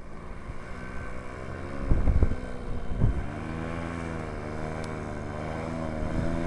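Paramotor engine and propeller droning overhead, its pitch wavering gently as the pilot flies, with heavy wind buffets on the microphone about two and three seconds in.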